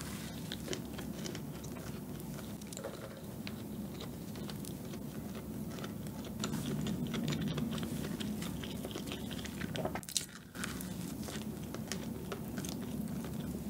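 Close-up mouth sounds of a person biting and chewing a soft dark chocolate dacquoise with a cream filling: a steady, moist chewing noise scattered with many small clicks, with a short pause about ten seconds in.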